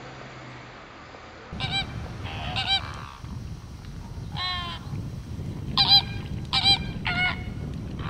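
A water bird giving a series of short goose-like honking calls, about seven in all, starting about a second and a half in, over a steady low rush of background noise.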